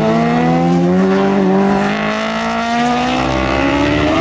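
Superbike racing motorcycle engine under hard acceleration, its pitch climbing steadily through one gear, then dropping at an upshift near the end.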